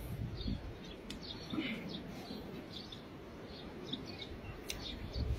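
Small birds chirping now and then, short high calls, over a low rumble.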